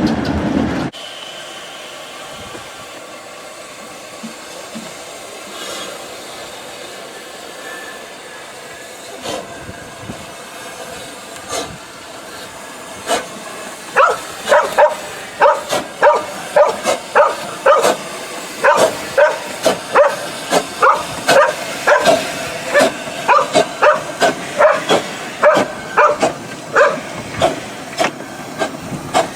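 A dog barking over and over, about two barks a second, starting about halfway through. Before the barking, a train's running noise cuts off suddenly about a second in, leaving a faint steady hiss.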